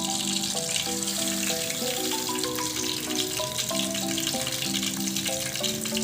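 Batter-coated nendran plantain slices deep-frying in hot coconut oil, a steady sizzling hiss. Background music with a melody of short notes plays over it.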